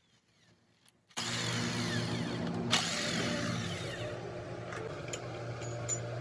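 A machine motor runs with a steady hum. It starts after a brief near-silent gap about a second in, with a single sharp knock partway through and a few light clicks near the end.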